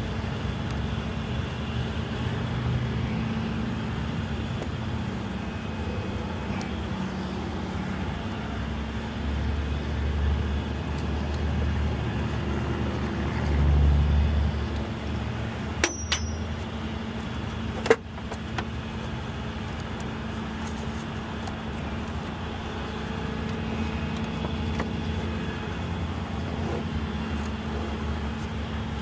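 Motor vehicle running with steady engine and road noise, swelling louder twice in the middle, with two sharp clicks about two seconds apart past the halfway point.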